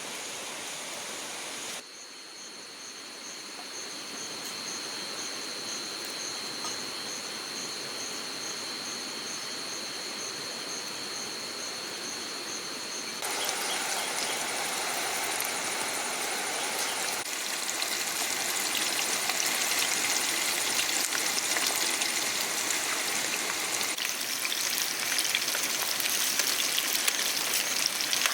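Chicken deep-frying in hot oil, a steady sizzle. About 13 seconds in it turns into a louder, dense crackle that grows louder again later on. In the quieter first part a steady high-pitched tone sounds over the sizzle.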